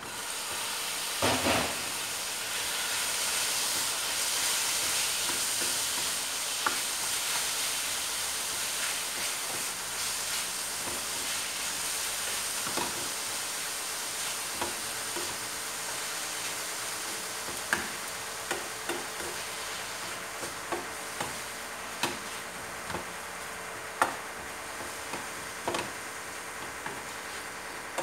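Sliced raw chicken sizzling as it lands in a hot frying pan. The sizzle swells over the first few seconds and then slowly eases. A wooden spatula stirring the meat knocks sharply against the pan again and again, most often near the end.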